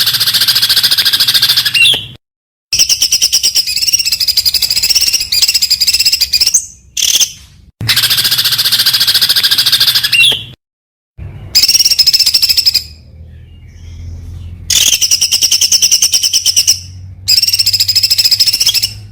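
Songbird giving 'tembakan' song: bursts of very rapid, high-pitched repeated notes, each a second or two long, broken by sudden silent gaps where recordings are spliced together.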